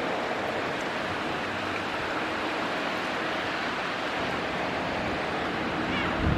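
Storm-force wind rushing steadily through trees during a fall windstorm.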